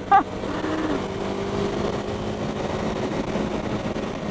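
KTM 390 Adventure's single-cylinder engine running steadily at cruising speed, its pitch dipping slightly just after the start and then holding level.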